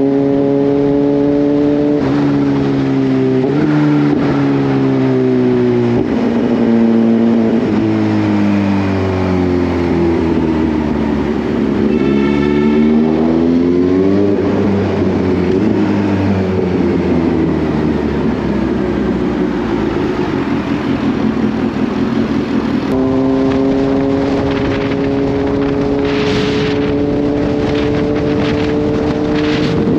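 Kawasaki Z H2's supercharged inline-four engine under way: it pulls up through the gears with quick upshifts in the first few seconds, then the revs fall away for a long stretch as the bike slows. About twenty-three seconds in it picks up again and climbs steadily.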